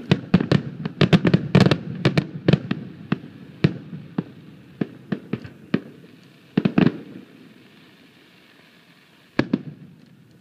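Fireworks bursting: a rapid string of bangs for the first three seconds or so, thinning to scattered single bangs, a quick cluster of cracks near seven seconds, and a last double bang near nine and a half seconds as the rumble dies away.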